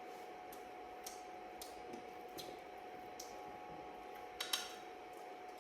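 Quiet eating sounds: small clicks and scrapes of a utensil against the metal pot of a pressure cooker full of rice, with a louder clatter about four and a half seconds in. A faint steady hum runs underneath.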